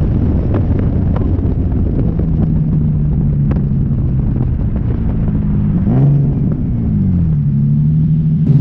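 Single-turbo Nissan 370Z's VQ37VHR V6 running at low, steady revs, with a brief rev rising and falling about six seconds in before settling back to a steady note.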